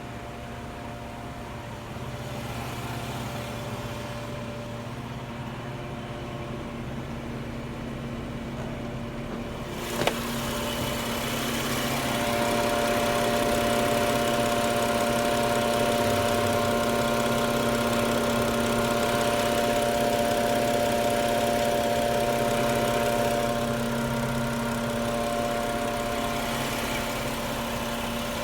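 A machine running with a steady hum of several held tones; a sharp click about ten seconds in, after which it grows louder with a higher whine added, easing back a little near the end.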